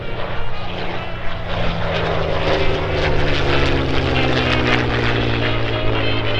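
Piston-engined propeller warbird flying past, its engine note falling steadily in pitch as it goes by.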